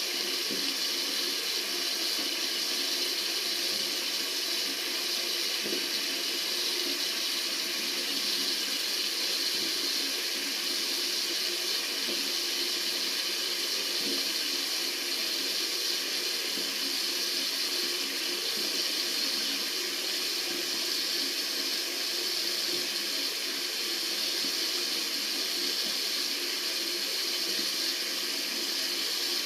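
Water running steadily from a tap into a sink, a continuous even rush.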